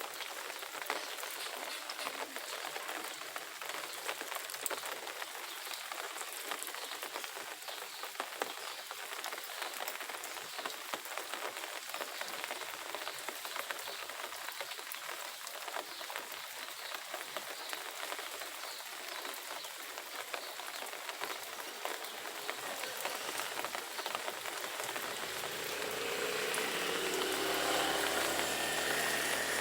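Steady crackling patter like rain falling on a surface. In the last few seconds a pitched hum swells in and grows louder.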